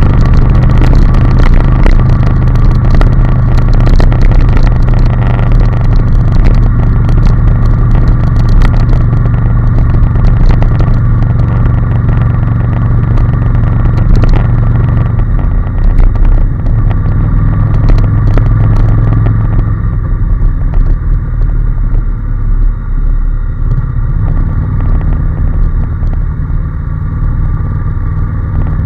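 Honda NC750S parallel-twin engine running steadily while riding, with wind noise crackling on the microphone. The engine note changes about halfway through. From about two-thirds of the way in it eases off and the wind noise lessens.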